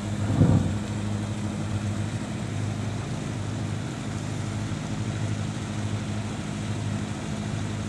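Marine diesel engine of a wooden fishing boat idling steadily with an even low drone, with a brief louder burst about half a second in.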